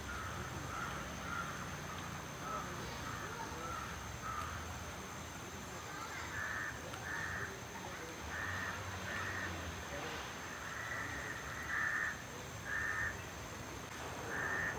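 A bird calling over and over in short calls, mostly in pairs, louder from about six seconds in.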